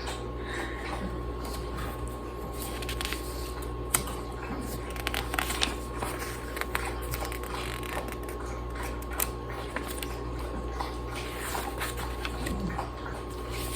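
Scattered small taps and rustles of handling, over a steady low hum.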